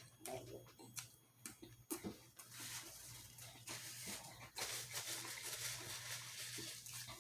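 Close-miked eating sounds: small mouth clicks of chewing, then from about two and a half seconds in a steady crackly rustling noise.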